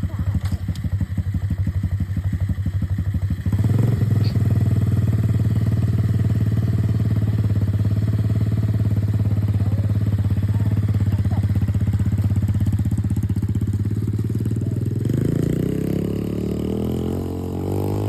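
Coolster dirt bike's small engine running at a steady idle, getting louder about three and a half seconds in. Near the end the revs climb.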